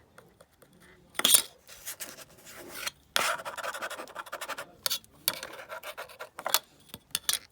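Kinetic sand being scraped and cut, a gritty rasping. There is a short sharp scrape about a second in, a long scrape from about three seconds to nearly five, another through the middle, and a few quick strokes near the end.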